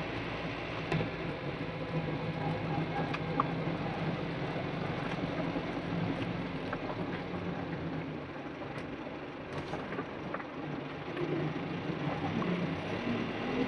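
Mitsubishi Canter truck engine running, with road noise and a low steady hum that fades about halfway, then rising in pitch near the end as the engine revs up.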